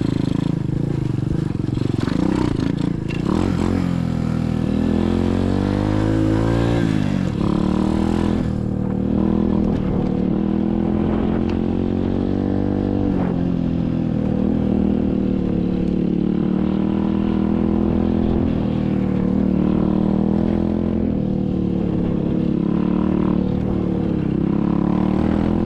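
SSR 125cc dirt bike's small single-cylinder engine running under way, its pitch rising and falling with the throttle and climbing clearly about four to seven seconds in. A rushing hiss lies over it for the first eight seconds or so.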